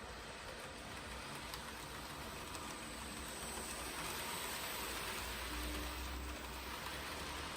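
KATO N-gauge 883 series Sonic model train running on its track: a steady rolling hiss of small wheels on rail with a low motor hum, growing louder toward the middle as it nears.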